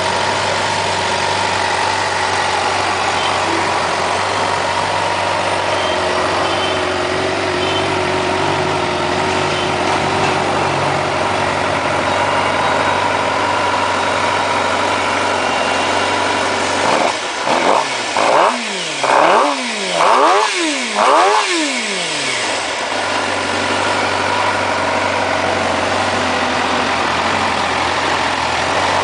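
Suzuki GSX-R750 motorcycle's inline four-cylinder engine idling steadily, with a run of about five quick throttle blips past the middle, each revving up sharply and dropping straight back, before it settles to idle again.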